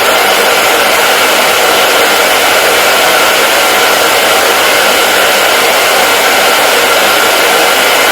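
Hair dryer running steadily: a loud, even rush of blown air with a faint motor whine, unchanging throughout.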